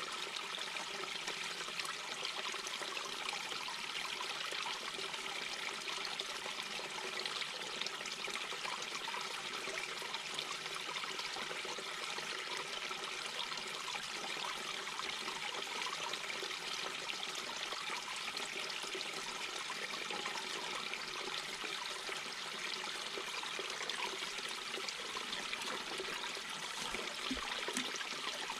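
Mountain brook babbling and trickling over stones, a steady rush of running water.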